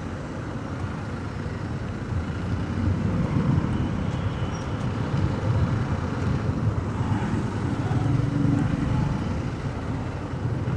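Motorcycle engines running at low speed amid road traffic: a steady low rumble that grows a little louder about two seconds in.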